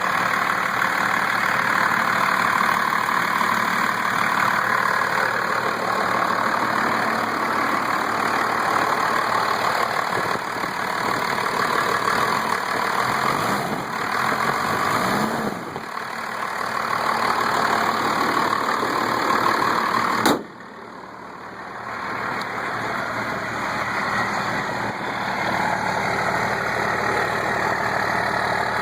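A 1990 Dodge Ram's 5.9-litre Cummins inline-six turbo diesel idling steadily. About twenty seconds in, a sharp click comes and the sound drops suddenly, then builds back up over a few seconds.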